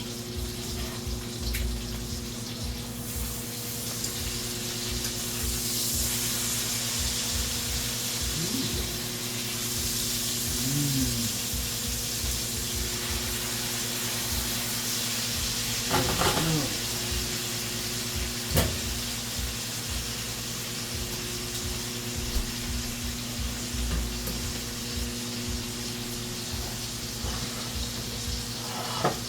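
Steak frying in a pan, a steady sizzling hiss over a constant low hum. A single sharp click comes about two-thirds of the way through.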